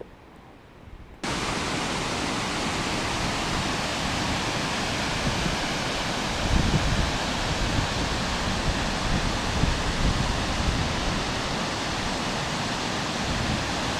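Waterfall: a steady, full rush of falling water that starts abruptly about a second in.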